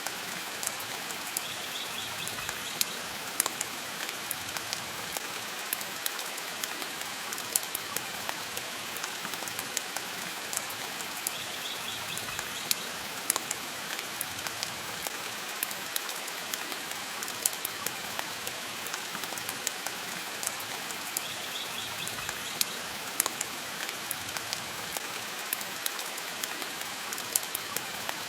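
Steady rain mixed with a crackling wood fire: a constant hiss dotted with frequent sharp pops. A faint, brief high chirp comes three times, about every ten seconds.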